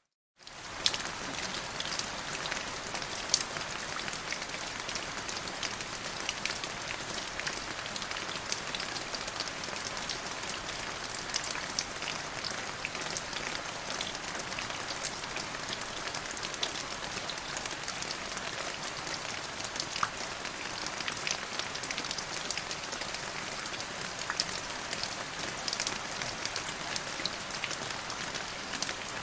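Steady rain falling on a surface, a constant hiss dotted with the ticks of single drops. It cuts out for a split second right at the start, then resumes.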